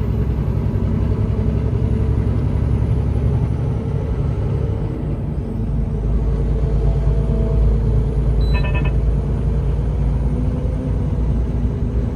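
Semi truck's engine and road noise heard from the cab while driving, a steady low rumble. A brief high-pitched beep sounds about eight and a half seconds in.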